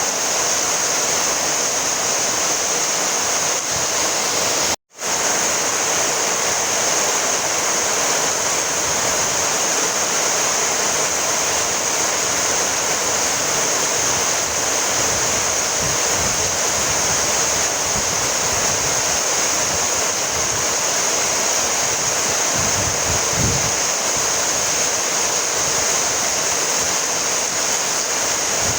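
Steady rain falling, an even hiss of rainfall. About five seconds in, the sound cuts out for an instant and then resumes.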